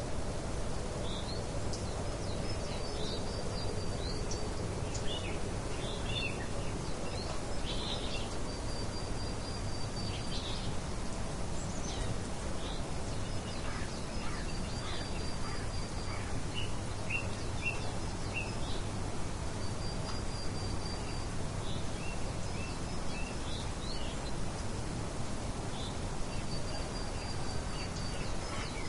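Steady hiss of light wind, with small songbirds chirping and giving short twittering trills on and off throughout.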